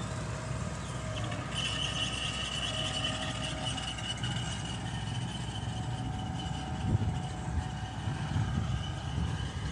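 Mitsubishi BD2G bulldozer's diesel engine running steadily as the machine works, with a steady high-pitched metallic squeal from about a second and a half in and a single knock about seven seconds in.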